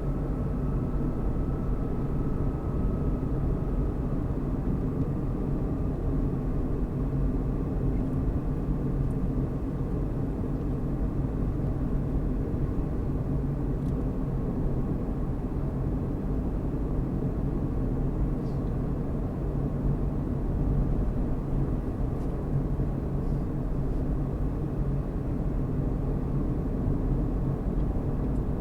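Car driving at a steady speed: engine and tyre road noise as a steady low rumble.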